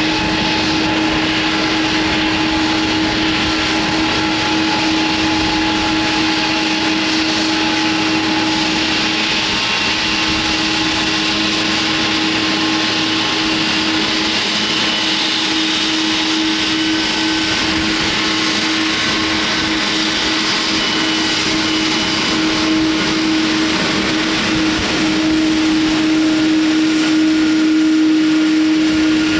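Jet airliner engines running close by: a steady loud rush of noise with a strong low hum and higher whining tones, growing a little louder near the end.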